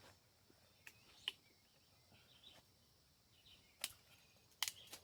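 Dry sticks snapping in a few sharp, separate cracks, as firewood is broken up for a campfire, over faint bird chirps and a steady high insect hum.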